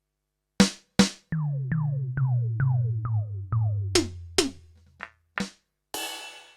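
Yamaha DTX720K electronic drum kit (DTX700-series module) played through an electronic kit voice: two sharp hits, then a quick run of about eight tom hits, each with a steep falling pitch sweep, over a held low tone, then a few more single hits and a crash-like noisy wash near the end.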